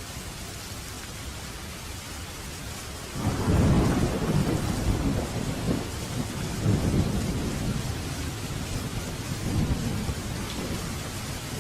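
Steady rain, joined about three seconds in by a roll of thunder. The thunder rumbles low in several swells and slowly dies away.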